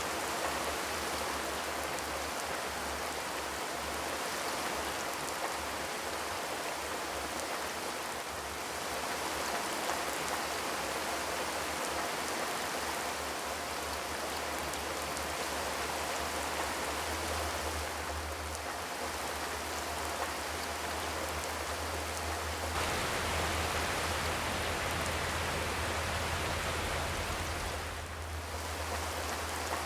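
Steady rain falling on a zinc roof, an even patter with no thunder.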